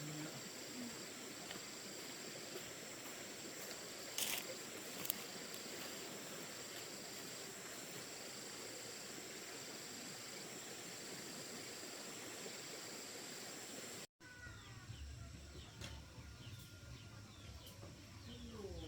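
Insects singing in rural outdoor ambience: a steady high trill with a pulsing chirp repeating about twice a second, and two sharp clicks about four seconds in. After a sudden cut about fourteen seconds in, the ambience is quieter, with short bird chirps over a low hum.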